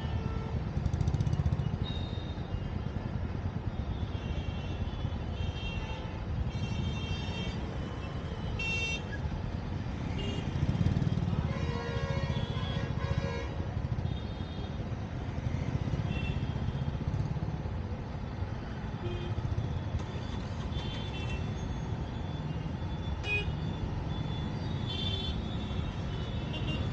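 Busy city road traffic heard from a moving vehicle: a steady engine and road rumble, with frequent short horn honks from the surrounding traffic, several in quick runs.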